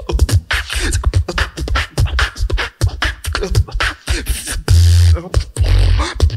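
Solo beatboxer performing into a microphone: a fast run of mouth-made kick, snare and hi-hat hits, giving way at about two-thirds of the way through to long, loud, deep bass notes.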